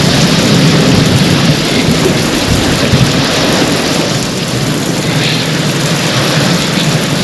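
Heavy rain pouring steadily, a dense even hiss, with a continuous low rumble of thunder underneath.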